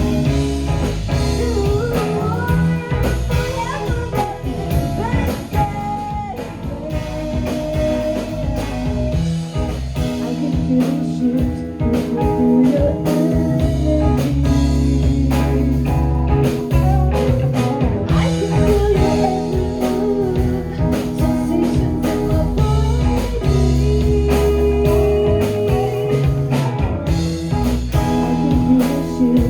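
Live rock band playing a blues-tinged song, with electric guitar lines over bass and drums. The low end grows heavier from about halfway through.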